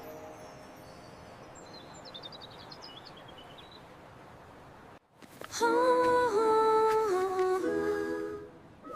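Soft outdoor background with a few faint bird chirps, then about five and a half seconds in a voice hums a slow melody, note by note, for about three seconds.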